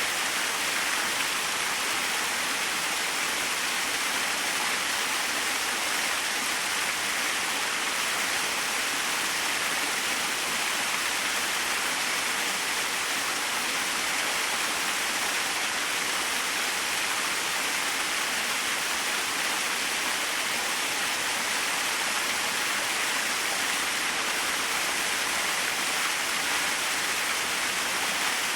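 Small waterfall splashing: a steady, even rush of falling water with no change.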